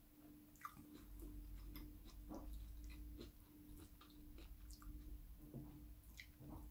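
Quiet chewing and small mouth and finger clicks of a person eating sticky rice and larb by hand, over a faint steady hum.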